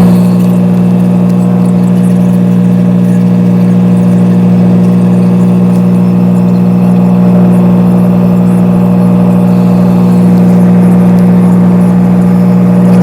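Truck engine running at a steady idle: a constant low hum that does not change in pitch.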